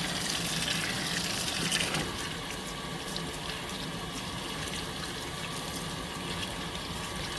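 Fisher & Paykel MW059 top-loading washing machine filling, water running steadily into the tub for a warm, high-water wash; the rush is a little louder in the first two seconds.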